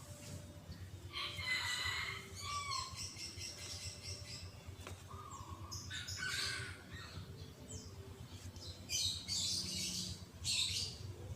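Birds calling in three short clusters of calls over a steady low rumble.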